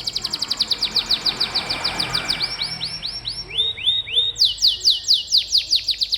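Domestic canary singing a rolling song: fast trills of short repeated high notes. About halfway the notes slow into a few separate rising notes, then a fast trill starts again.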